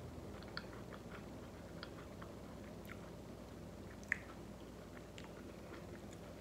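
A person chewing a soft mouthful of loaded taco fries close to the microphone: faint wet smacks and small mouth clicks. There is one sharper click about four seconds in.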